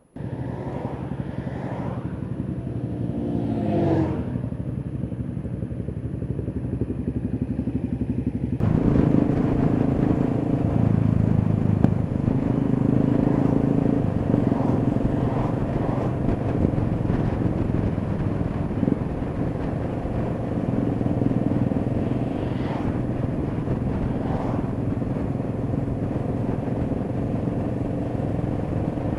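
Kawasaki EN500 Vulcan's parallel-twin engine comes in abruptly and runs, with a rev that rises in pitch about four seconds in. About eight and a half seconds in it gets suddenly louder, with added wind rush as the bike rides on steadily.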